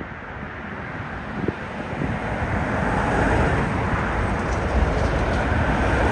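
Jet airliner engine noise growing steadily louder as the aircraft approaches.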